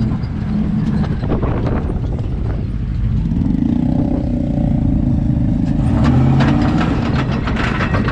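Dodge Ram pickup's engine running under load in four-wheel-drive low, with bursts of metallic clanking, a cluster about a second in and a faster run from about six seconds on. The clanking is the front drive shaft flailing after its U-joint strap broke.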